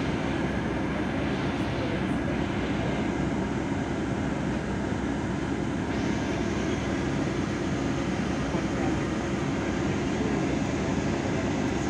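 Passenger train running along the track, heard from on board: a steady rumble of wheels and running gear.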